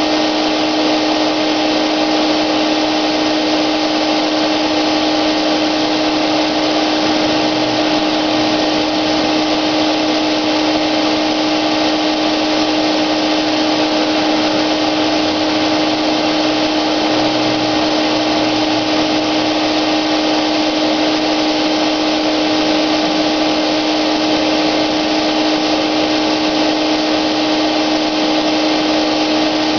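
Wagner electric paint sprayer running steadily during spraying: a constant motor whine over an even rush of air.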